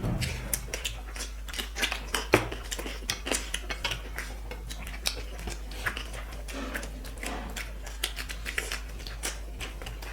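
Eating from a plate: many quick, irregular clicks, taps and scrapes as rice and curry are gathered and scooped against the plate.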